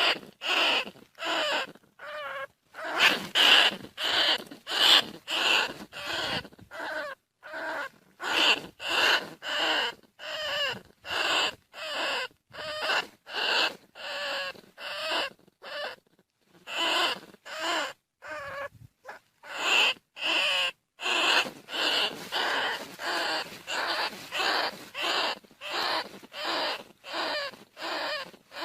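Bandicoot rat calls: short, squeaky, wavering cries repeated steadily about one and a half times a second, a call used to lure rats in.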